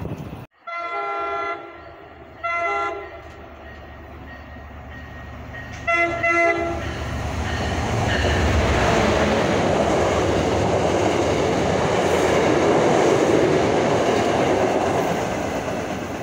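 MBTA commuter rail diesel locomotive sounding its horn in three blasts, one longer then two short, then the locomotive and its coaches passing close by with engine rumble and wheels clattering over the rails, growing louder as the train goes by.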